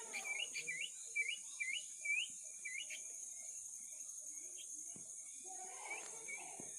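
Quick, high, repeated bird chirps, three or four a second, which stop about three seconds in and return faintly near the end, over a steady high-pitched hiss.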